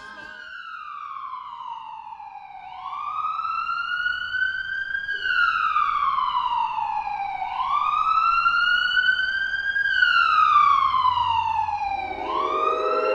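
A wartime air-raid siren wailing, its pitch sliding slowly down and up about every five seconds: the rising and falling warning of an air raid. About 12 seconds in, a second, lower siren begins winding up.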